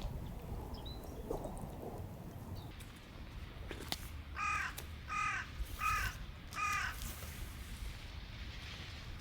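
Swans calling: four short honking calls in quick succession near the middle, over a low background rumble.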